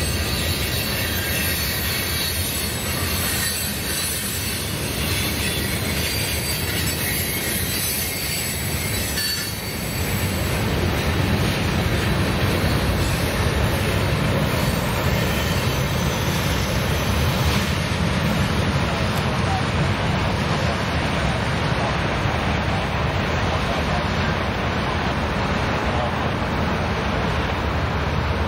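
Freight train cars rolling past: a steady rumble of steel wheels on the rails, dipping briefly about ten seconds in.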